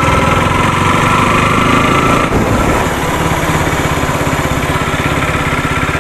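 Motorcycle engine running with an even, rapid firing pulse; a higher whine in its sound drops away a little over two seconds in.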